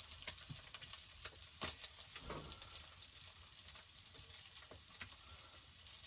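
Eggs frying in a pan: a steady sizzle with scattered crackles and pops.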